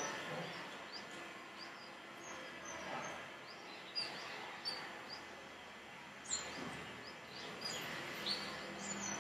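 Faint bird chirps: short, high chirps every second or so over a steady background hiss.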